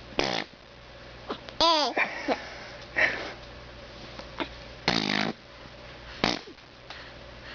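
A woman making silly mouth noises for a baby: about six short bursts with pauses between, mostly breathy blowing sounds, one a squeaky voice sliding down in pitch.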